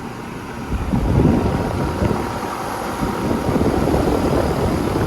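Rheem Classic 3-ton central air conditioner's outdoor condenser running, its compressor and fan giving a steady hum with a thin steady tone. From about a second in, a heavy uneven rumble of moving air buffets the microphone.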